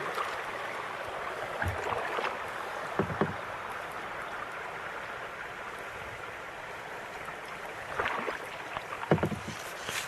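Creek water rushing steadily past a kayak, with a few paddle strokes splashing in now and then.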